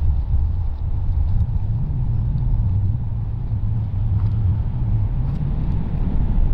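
Wind buffeting the microphone: a steady low rumble that rises and falls, with a few faint ticks over it.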